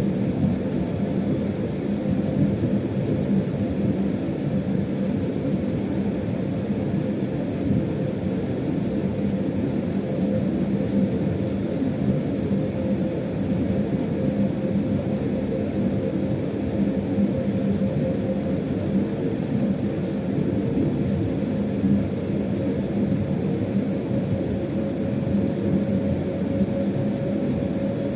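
Freight locomotive running, heard from inside the driver's cab: a steady rumble with a constant hum and a steady higher tone that rises a little near the end.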